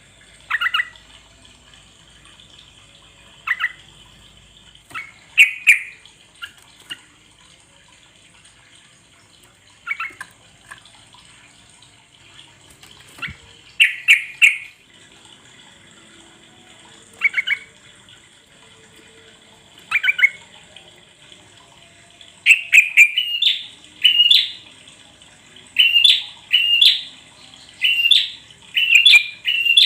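Yellow-vented bulbul (trucuk) song: short chirping phrases a few seconds apart, which turn into a fast run of repeated phrases over the last several seconds.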